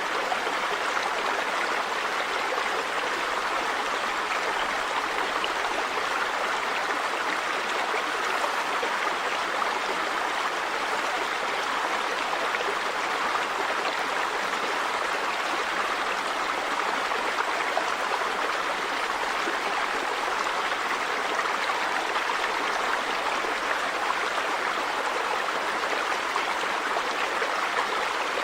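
River water running over stones, a steady rushing and babbling.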